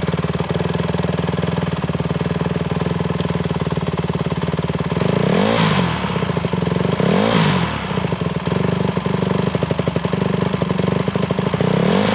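Single-cylinder 150cc dirt bike engine idling with an even putter, revved up and let back down three times: twice around the middle and once near the end.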